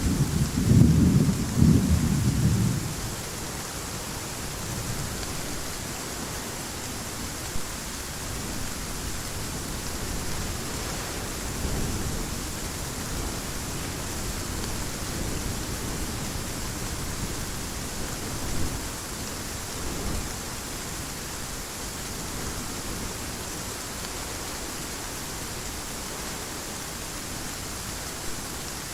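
Heavy rain falling steadily, with a loud rolling thunder rumble in the first couple of seconds that fades out, and a few fainter low rumbles of distant thunder later on.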